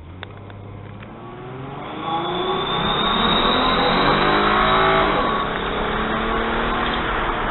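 Car engine pulling harder under acceleration, with fake turbo whistle simulators adding a thin, high whistle. The whistle comes in about two seconds in as the sound swells, heard from inside the cabin.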